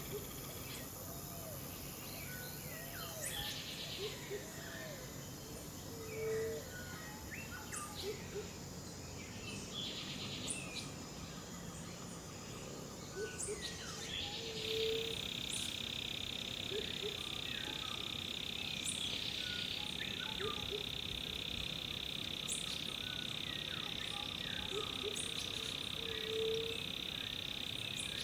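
Rainforest ambience: a steady chorus of insects and frogs with scattered short bird chirps. About halfway through, a louder, continuous insect buzz sets in, and a short low call rises above the rest three times.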